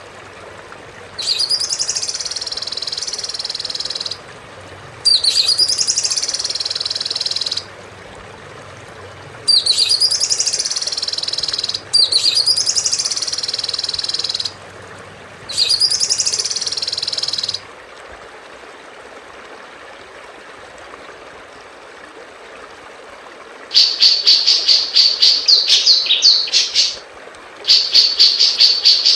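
Recorded songbird song: the same high whistled phrase, each with a falling then rising sweep, repeated six times, each lasting about two and a half seconds and starting and stopping abruptly. After a pause of about six seconds, a fast run of sharp, high chirps begins near the end.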